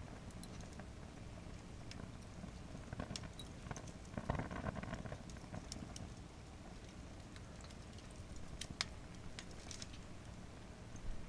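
Firewood burning in a campfire pit, crackling and popping irregularly over a low steady rush of flame, with a louder surge about four seconds in.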